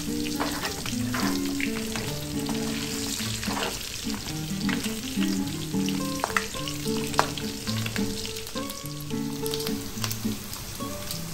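Pork ribs sizzling and spitting as they fry in butter in a metal pan, with a wooden spatula scraping and knocking against the pan as they are stirred. Soft background music plays under it.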